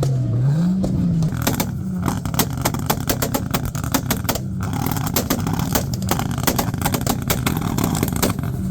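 Car engine running and revved once, its note rising and falling. Then a long rapid run of sharp cracks sounds over the running engine.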